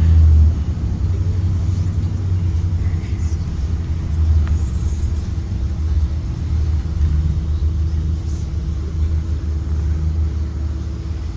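Blue Bird Vision school bus on the move: a steady low engine and road rumble.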